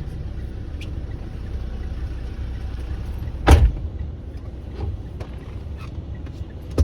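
Steady low rumble of a manual-transmission car running at low speed, heard from inside the cabin, with a loud thump about three and a half seconds in and a sharp knock near the end.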